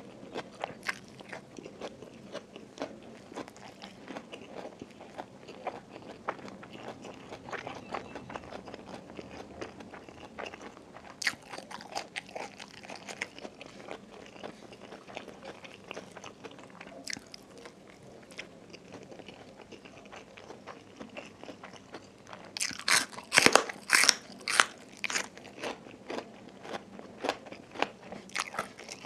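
Close-miked mouth sounds of chewing rice mixed with crispy fluffy fried catfish chili paste: soft, moist clicks throughout. Roughly two-thirds of the way through comes a run of loud, crisp crunches, the sound of biting into raw bitter gourd.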